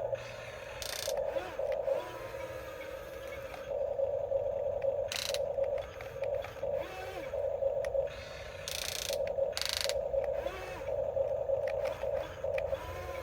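Small electric gear motors of Huina RC construction models whirring in short on-off bursts, starting and stopping many times as the controls are worked. A few brief noisy bursts come through, around one second in and twice more later.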